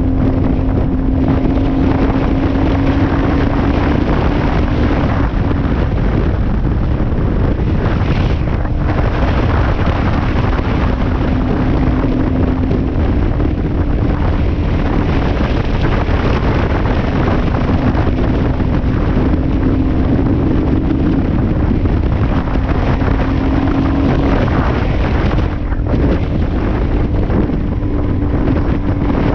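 Suzuki DR-Z400S single-cylinder four-stroke engine running while the bike is ridden, its pitch drifting slightly up and down. Heavy wind buffets the microphone throughout.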